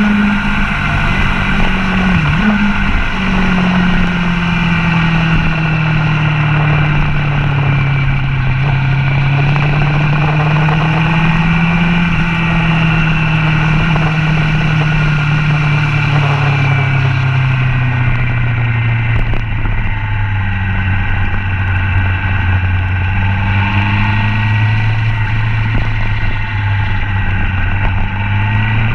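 Sport motorcycle engine on a racetrack, heard from a camera mounted on the bike with wind rush over it. The engine note slowly falls and rises with the throttle, dips briefly about two seconds in, and climbs again near the end.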